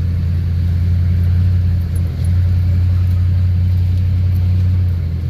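Duramax diesel flatbed truck driving, heard from inside the cab: a steady low engine and road drone, with a brief dip about two seconds in.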